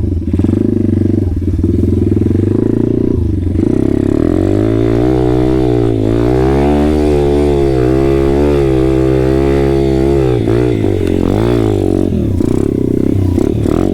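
Small geared moped engine running close by. It holds a steady note at first, then its pitch rises and falls in slow waves for several seconds as the throttle changes, and it settles again near the end.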